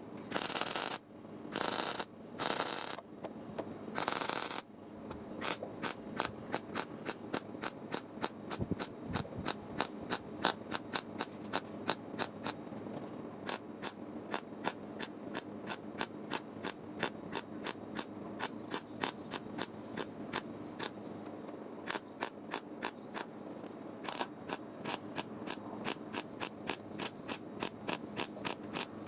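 Four short bursts of hiss in the first few seconds, then steady rhythmic mechanical clicking, about three clicks a second, like a ratchet, with a brief pause near the end.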